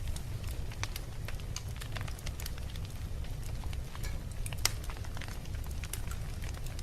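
Wood fire burning in a fireplace: a steady low rumble of flames with irregular crackles and pops from the burning logs, one sharper pop about four and a half seconds in.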